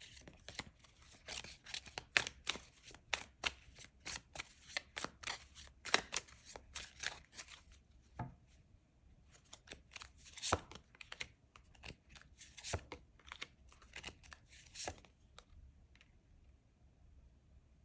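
Tarot deck being shuffled and handled: quick card flicks and snaps, dense for the first half, then thinning to a few scattered taps.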